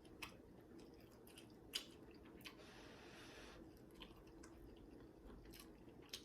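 Quiet chewing of food, with a few faint, short wet mouth clicks.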